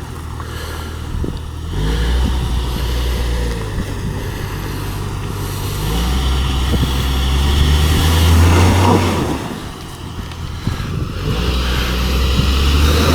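Suzuki SJ off-roader's engine revving in three long surges as it crawls slowly over rough ground, with a few light knocks.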